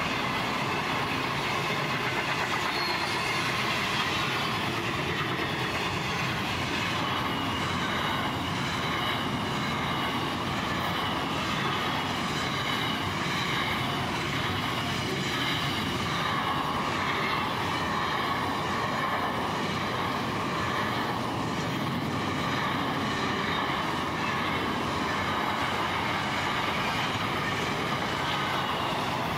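Wagons of a long freight train (louvre vans and loaded container flats) rolling past steadily. The wheels clatter on the rails, with faint high-pitched ringing tones from the wheels wavering above the rumble.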